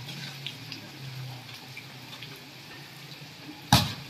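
Heavy rain hissing steadily on a wet concrete court, with one sharp thud of the volleyball being struck near the end.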